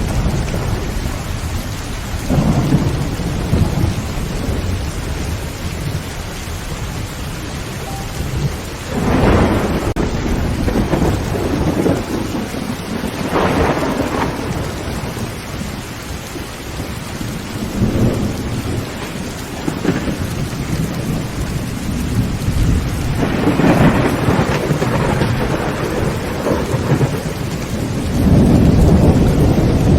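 Heavy rain drumming steadily on a tin tent roof, with thunder rumbling in low rolls about every four to five seconds; the loudest roll comes near the end.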